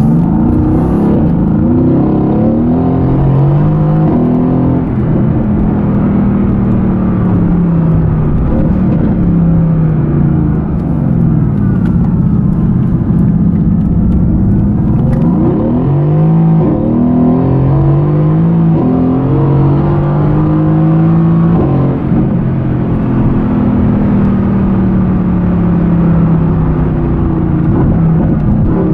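Mercedes-AMG GT's twin-turbo V8 heard from inside the cabin under hard acceleration, its pitch rising in steps as it shifts up through the gears twice, with slower falling stretches between as it eases off.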